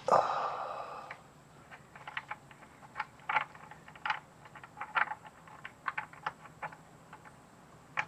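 A metallic clang right at the start that rings and fades over about a second, followed by a string of irregular clicks and taps from tools and hands working on a car's oil filter to get it off.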